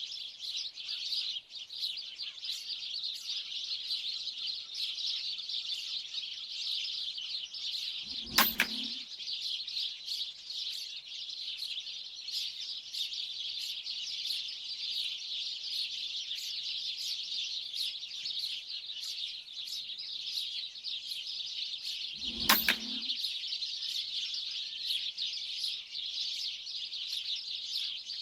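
Dense, continuous chirping of a large flock of small birds, with two sharp shots from a PCP air rifle firing 4.5 mm slugs, one about eight seconds in and one about twenty-two seconds in.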